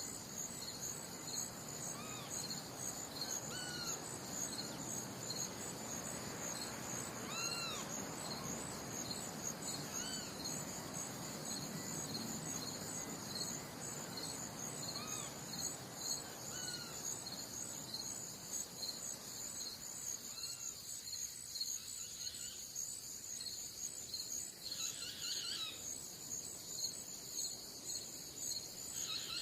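Crickets or similar insects chirping in a steady, pulsing high-pitched chorus. Short chirping calls, likely birds, come every second or two, and a soft low rushing sound underneath dies away about two-thirds of the way through.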